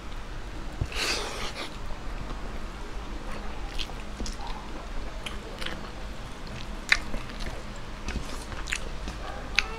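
Close-up chewing of rice and chicken adobo eaten by hand, with wet mouth clicks and smacks scattered throughout. There is a short burst of noise about a second in, and two sharper clicks come later, one a little before the end and one near the end.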